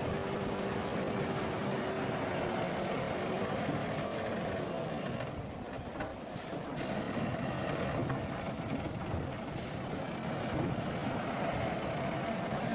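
Heavy diesel earthmoving machinery running steadily, with a few brief clicks around the middle.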